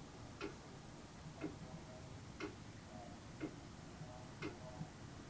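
Clock ticking steadily and faintly, about one tick a second.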